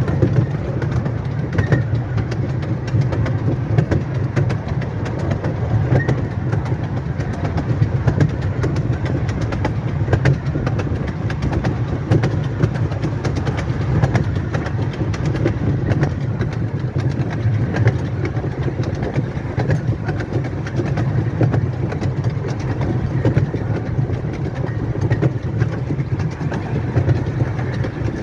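Miniature railway train running along the track, a steady rumble with many light clicks from the wheels and rails.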